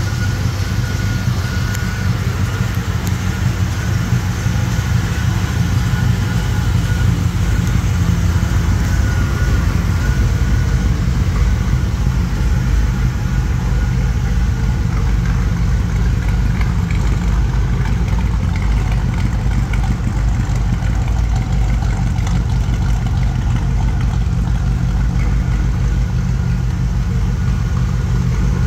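1955 Chevrolet Bel Air's 327 small-block V8 idling steadily.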